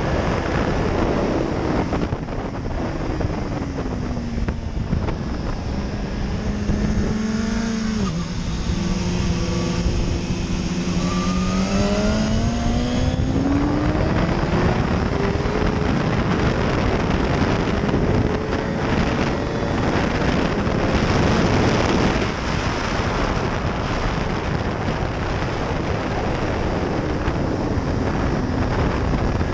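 BMW S1000RR inline-four sportbike engine heard from onboard at speed. It winds down with a downshift into a corner and holds low through the bend. About halfway through the engine note climbs steadily as the bike accelerates out onto the straight, under heavy wind rush.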